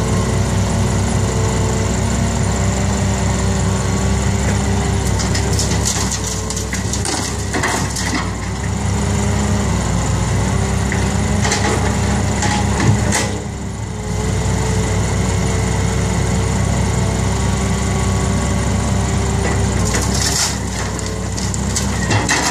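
Six-wheel dump truck's diesel engine running steadily, with a few sharp knocks and rattles, most plainly about six to eight seconds in, near the middle, and again about twenty seconds in.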